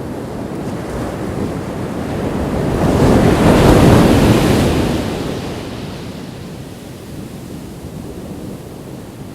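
Ocean waves breaking on a beach: the surf swells to one loud crash about four seconds in, then washes back out and settles. Wind buffets the microphone throughout.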